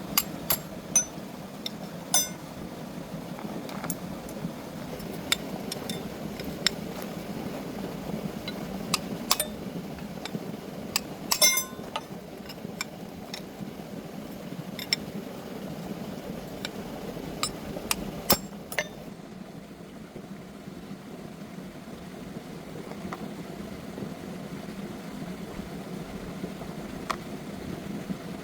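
Scattered sharp metallic clinks and taps of hand tools and metal parts being handled, over a steady low hum.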